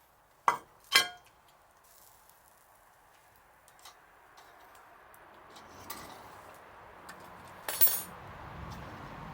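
Sharp clinks, two in the first second and a louder one near the end, over a faint rushing noise that grows.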